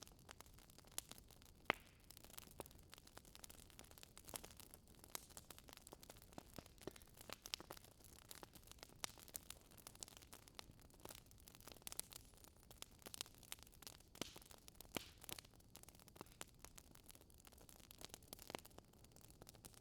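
Faint fireplace crackling: irregular soft pops and snaps over a low hiss.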